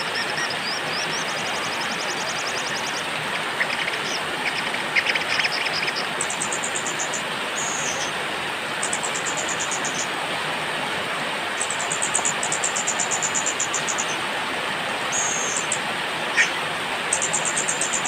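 Steady rain hiss with small songbirds singing over it in high, rapid trills and chirps that come and go every second or two.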